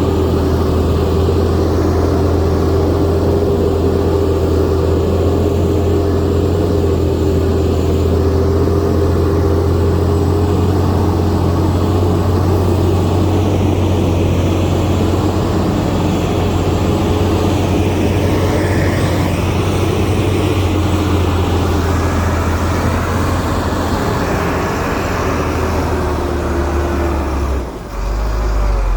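Heavy diesel engine of earthmoving machinery running steadily, a loud low drone with a steady whine above it. The engine sound drops off shortly before the end.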